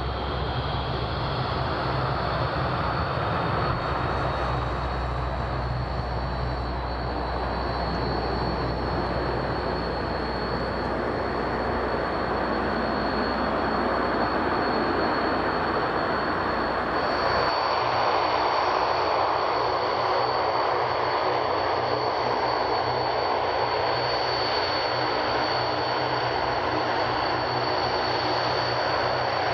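Antonov An-32 twin turboprop engines: first the drone of one aircraft climbing away after takeoff, then, after a cut about 17 seconds in, a second An-32 taxiing with its engines running. A steady high whine sits over the broad engine noise throughout.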